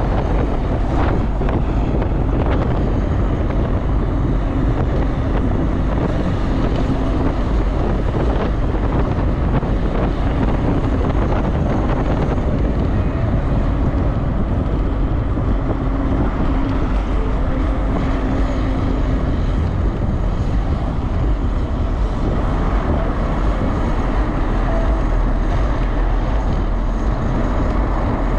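Wind buffeting the microphone in a steady loud rush, over a low engine drone with a faint hum that fades out about two-thirds of the way through.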